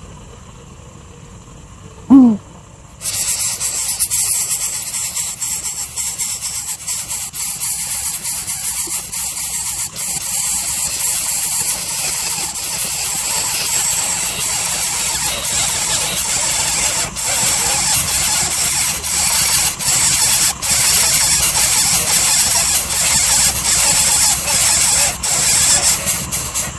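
A single short squeal falling in pitch about two seconds in, then a steady, loud, high hiss with scattered clicks that starts suddenly a second later.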